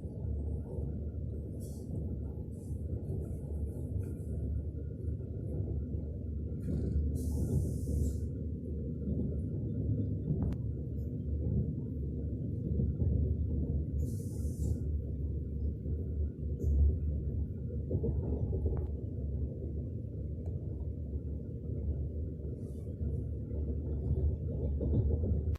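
Steady low rumble, with two short high hisses about seven and fourteen seconds in.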